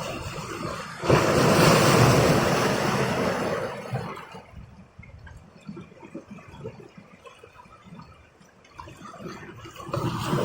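A rush of water, like a wave washing in, surges up suddenly about a second in and dies away over the next few seconds, followed by quieter irregular splashing.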